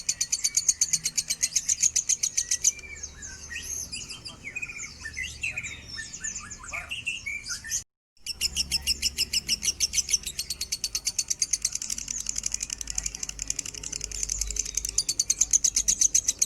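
Lovebird chattering in a fast, high trill of about ten notes a second. A few seconds in, the trill gives way to varied chirps, and after a brief break the long trill resumes.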